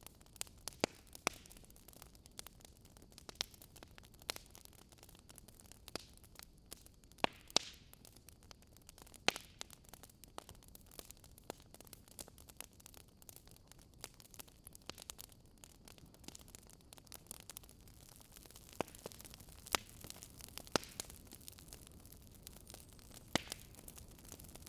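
Wood fire in a fire pit crackling: irregular sharp pops and snaps over a faint steady hiss, with a few louder pops scattered through.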